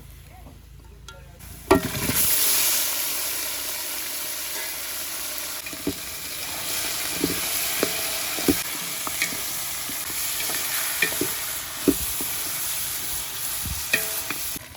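Chicken pieces dropped into hot oil in a pot about two seconds in, setting off loud sizzling frying that goes on throughout, with a spoon stirring and knocking against the pot several times.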